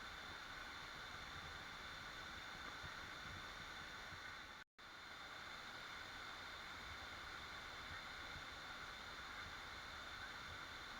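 Steady, faint rushing of a waterfall, an even hiss of falling water with no birds or other sounds on top. It cuts out completely for a split second a little before halfway through.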